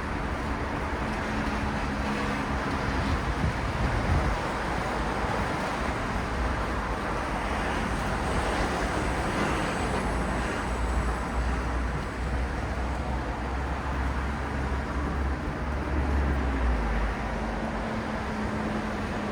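Steady city road traffic: a continuous wash of tyre and engine noise with a deep rumble, a vehicle passing a little past the middle, and engines humming at the start and near the end.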